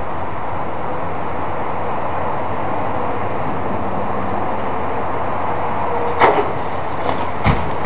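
Steady rushing background noise, with two sharp knocks near the end, about a second and a half apart.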